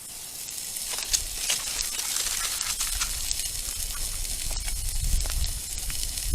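Breakfast sausage sizzling in a hot skillet over a campfire. The sizzle swells up in about the first second, then holds as a steady hiss with scattered pops and crackles.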